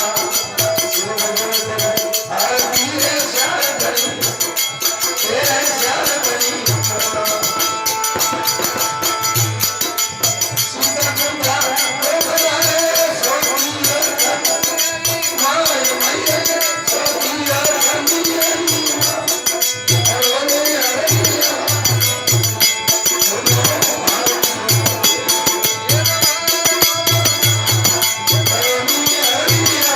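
Hindu devotional aarti music: a steady drum beat with jingling percussion under a wavering melodic line.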